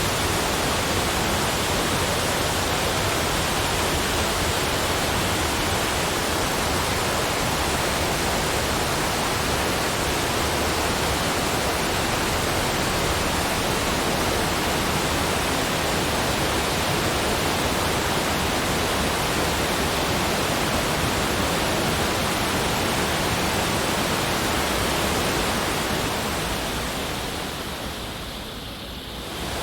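Steady, even rushing of falling water, with no other sounds in it. It fades down near the end and briefly dips before coming back in, like a loop being joined.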